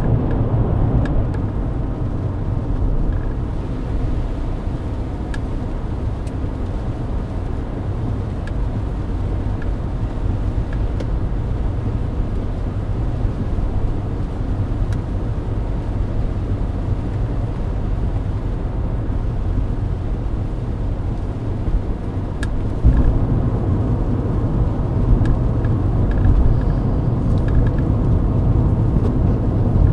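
Inside a Mercedes-Benz W124 at highway speed on a wet road: steady low rumble of tyres, road and engine, with a few faint ticks. The rumble grows louder about three-quarters of the way through.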